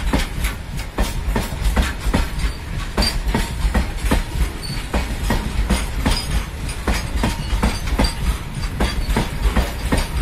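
Wheels of a coal-laden freight train's tarpaulin-covered open wagons clattering over the rail joints as the wagons roll past close by: a steady run of clickety-clack knocks over a low rumble.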